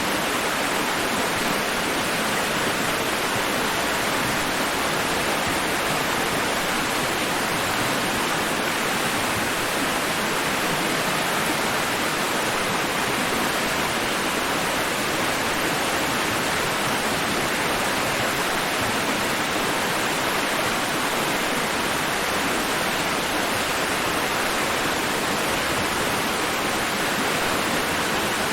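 White-noise sleep track: a steady, even rushing hiss like a waterfall, unbroken and without any rise and fall of waves.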